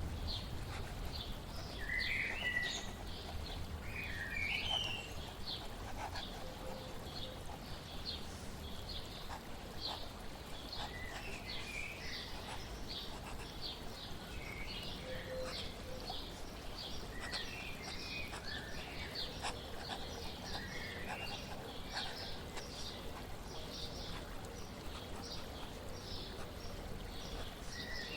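Birds chirping, with short rising and falling calls and fast runs of high repeated notes, over a steady hiss of flowing water.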